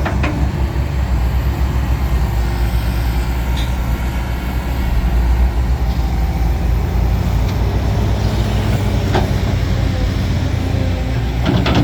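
Heavy diesel earthmoving machinery running steadily with a deep rumble, with a quick cluster of sharp metallic clanks near the end.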